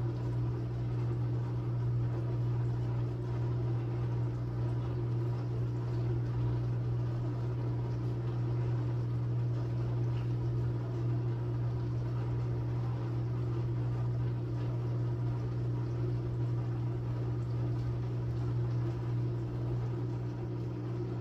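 Steady low mechanical hum that does not change, like a motor or appliance running.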